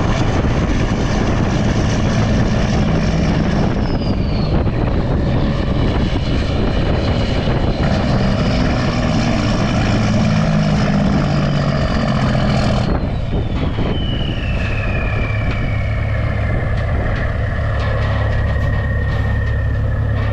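Heavy diesel engine running hard with a high whine over it. About thirteen seconds in the load drops off, the whine winds down in pitch, and the engine settles to a steadier, lower note.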